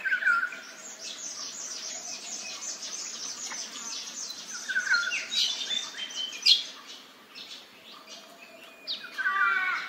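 Wild birds calling in hillside forest: short falling whistles near the start and again about five seconds in, a run of rapid high chirps through the first part, a sharp loud note about six and a half seconds in, and a burst of warbling calls near the end.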